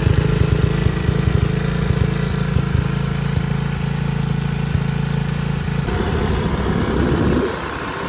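Pit bike's small single-cylinder engine running steadily just after starting up. About six seconds in, the steady note gives way to a rougher, unsteady one.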